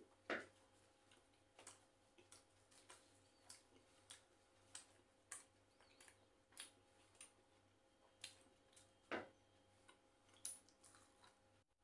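Faint chewing: soft, regular mouth clicks about one and a half times a second as a man eats bread and curry, with a few louder smacks.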